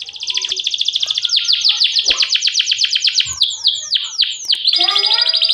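Domestic canary singing: a rapid trill of repeated notes, then, about three seconds in, a few slower notes that each slide down in pitch, then a very fast high trill near the end.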